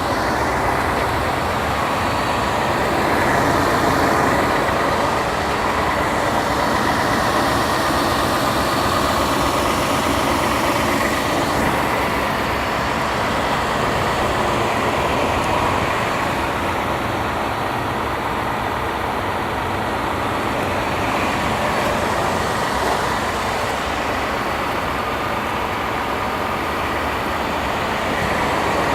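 Ford F-150 pickup's engine idling steadily.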